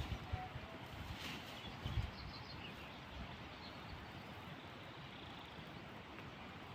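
Quiet outdoor rural background with a few faint bird chirps, and a couple of soft low thumps at the start and about two seconds in.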